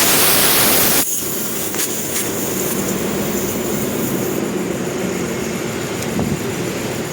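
Vehicle running steadily, opening with a loud hiss that stops sharply about a second in.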